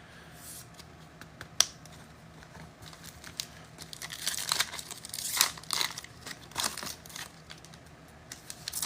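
Trading-card pack wrapper being torn open and crinkled, in a run of short rustling rips from about three and a half to seven seconds in, with a single faint click a little earlier.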